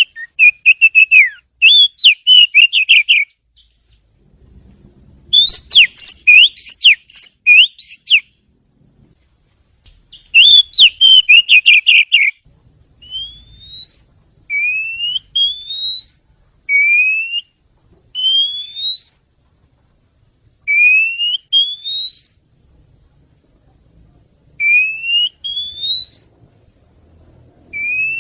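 Oriental magpie-robin (kacer) singing: loud bursts of rapid, varied whistled and chattering phrases for the first dozen seconds, then a series of clear rising whistles, mostly in pairs.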